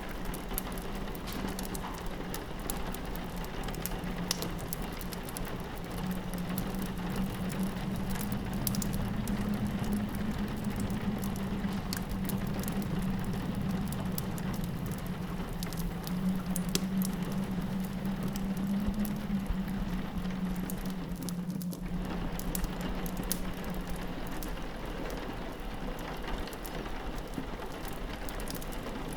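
Rain pattering steadily on a window, mixed with a fireplace crackling in many small, sharp snaps. A low wind howl comes in about six seconds in and fades out before the end, and the sound dips briefly about 22 seconds in.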